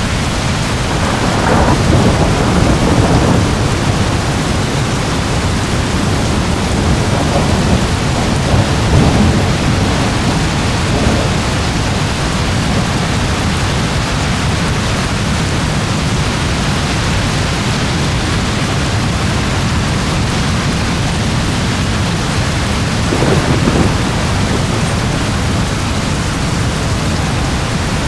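Steady heavy rain with thunder rumbling: a long rumble in the first few seconds, more rumbles from about 7 to 11 seconds, and another shorter one about 23 seconds in.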